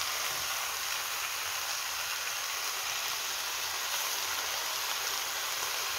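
Chicken feet sizzling in a pot on a gas stove: a steady, even hiss.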